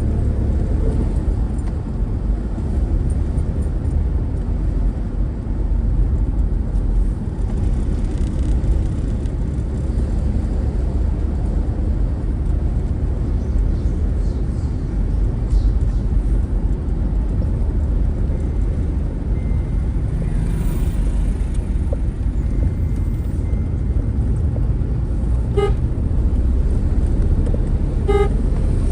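Steady low rumble of a vehicle driving along a road, with two short horn toots near the end.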